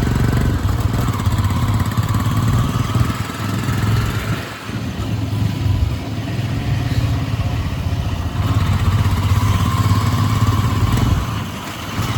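Royal Enfield Himalayan motorcycle's single-cylinder engine running under way. It eases off briefly about four and a half seconds in, then picks up again.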